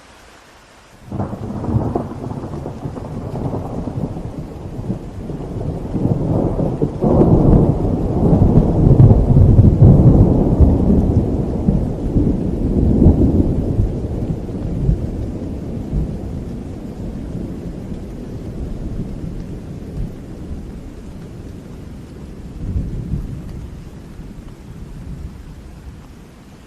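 Long rolling thunder over steady rain: a sudden crack about a second in, swelling to its loudest in the middle, then slowly rumbling away.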